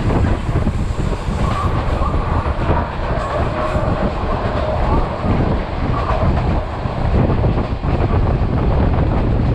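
Vietnam Railways passenger train running along the track: a steady, loud rumble with wheel clatter. A faint wavering whine rises over it between about two and six seconds in.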